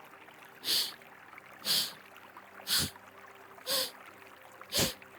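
Kapalabhati breathing through the right nostril: five short, forceful exhalations at about one a second, each a sharp hissing puff of breath.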